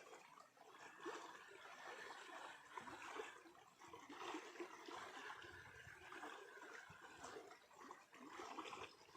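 Faint running water of a river or stream flowing.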